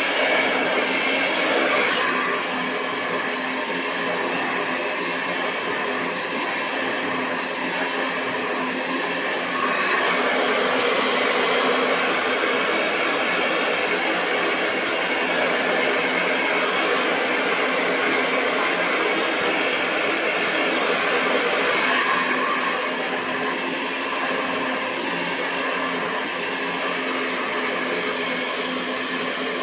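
Hair dryer blowing continuously: a steady rush of air over a constant motor hum, its tone and loudness shifting slightly a few times.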